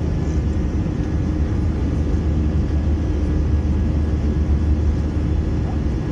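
Steady low rumble of an Airbus A321-200's engines and airflow heard inside the passenger cabin, with a faint steady hum above it.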